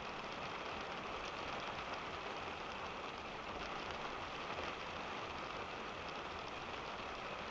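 Steady rain pattering on a car's roof and windscreen, heard from inside the cabin, with a low road and engine rumble underneath.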